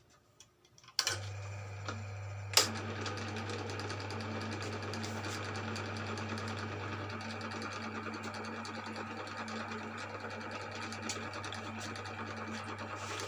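Electric cylinder boring machine switched on about a second in, then running steadily with a low motor hum as it makes its first cut through the Mio M3 cylinder bore, with a sharp click about two and a half seconds in.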